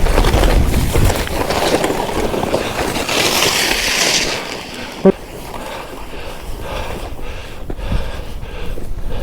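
Skis running through deep powder snow, a rushing hiss of snow and wind on the microphone that is loudest in the first four seconds and then eases off. A single short sharp sound about five seconds in.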